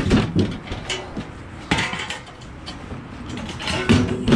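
Knocks and clatter of hard objects being handled and set down, with a few sharp bangs: one near the start, one just under two seconds in, and a cluster near the end.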